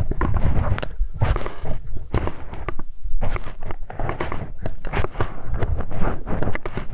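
A hex wrench scraping, tapping and twisting against an ear microphone: a dense, uneven run of close crackles, scratches and knocks.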